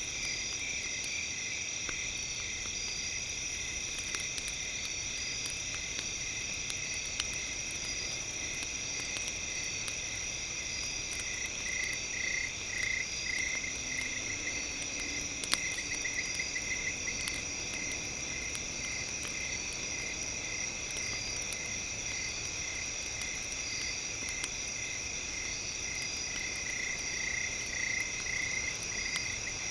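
Campfire crackling in small sharp pops over a steady layer of high chirping and held high tones.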